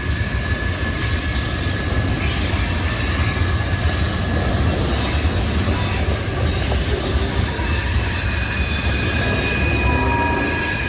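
CSX freight train rolling past: a steady, loud rumble of cars on the rails with thin, steady high-pitched wheel squeal.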